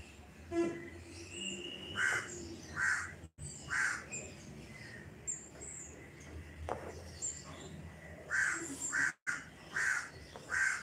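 A bird calling: short repeated calls, a few about two to four seconds in and another run near the end.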